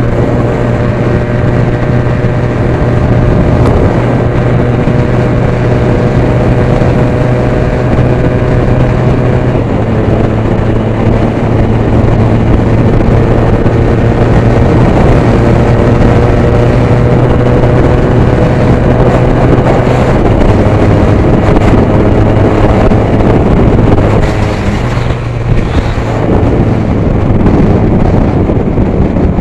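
Benelli TNT 300's 300 cc parallel-twin engine running steadily at road speed, with wind on the microphone; its note shifts down a couple of times, about ten and twenty seconds in.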